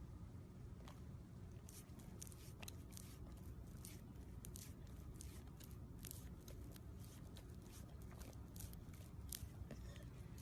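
Faint, irregular crisp clicks and crunches, several a second, over a low steady rumble.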